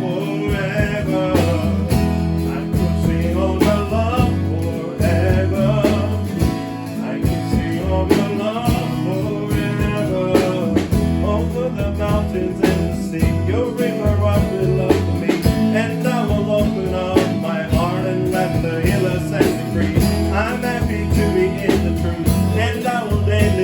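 A church worship band playing a contemporary worship song: strummed guitar over a steady bass, with voices singing the melody.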